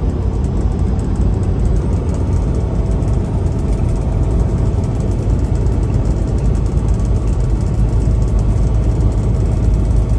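Semi truck's diesel engine and road noise, a steady low rumble while the loaded rig is driving.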